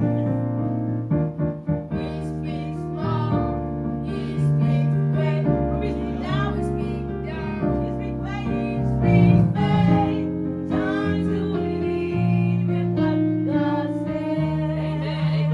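Youth choir singing a gospel song with keyboard accompaniment.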